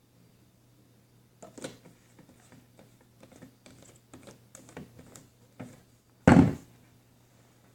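Handling noises: a few seconds of small, scattered clicks and taps, then a single loud thump a little past six seconds in.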